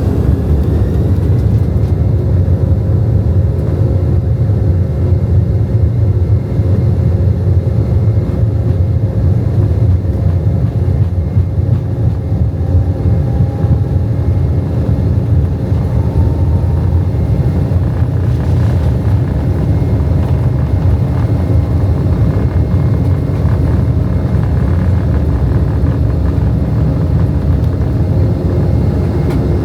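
Airbus A319 jet engines at takeoff power: a loud, steady, deep rumble with a steady whine over it, and a whine that rises in pitch in the first couple of seconds.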